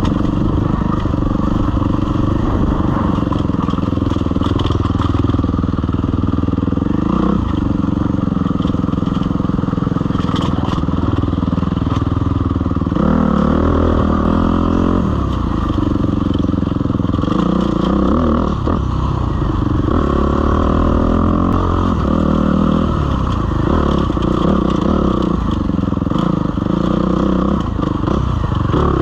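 Suzuki RM-Z250 single-cylinder four-stroke dirt bike engine running under riding, its revs rising and falling with the throttle as it works over a rocky trail.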